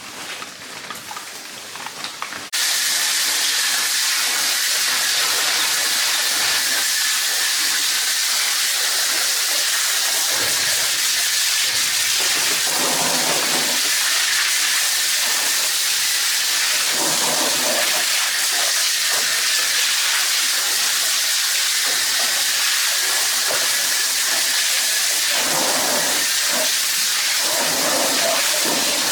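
A loud, steady hiss that starts abruptly about two and a half seconds in and holds at an even level.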